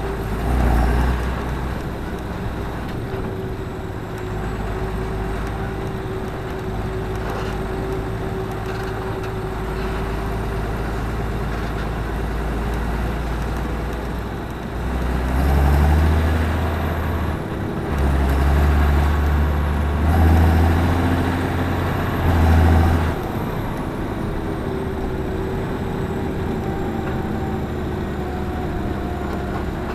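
Claas Axion 820 tractor's six-cylinder diesel engine running steadily, growing louder in several surges for about eight seconds past the middle before settling back to its steady run.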